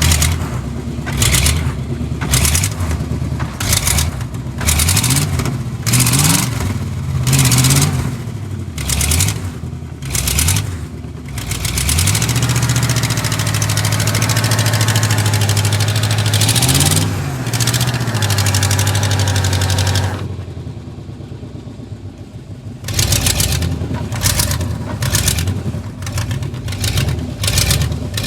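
Vehicle engine revving up and down again and again while stuck in snow, with a held high rev for several seconds near the middle before it eases off. A string of short, evenly spaced bursts of noise runs alongside.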